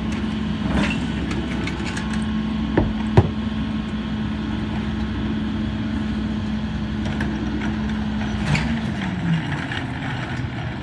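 Garbage truck's diesel engine running steadily at raised revs, then dropping back to a lower idle near the end. Two sharp knocks about three seconds in.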